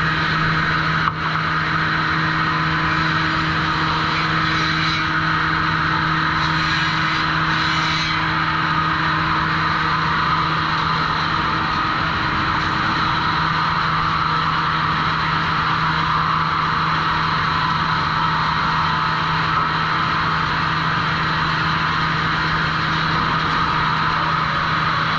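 Sawmill trim saw and its machinery running steadily, a continuous motor hum with a high whine from the spinning saws, briefly dipping about a second in.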